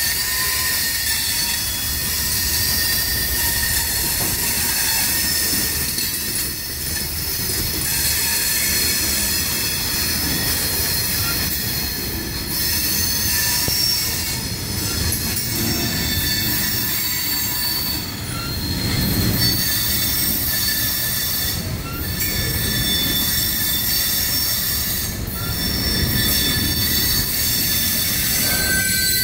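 Freight train cars rolling by on steel rails, the wheels squealing steadily in several high tones over a low rumble, with a few sharp clicks.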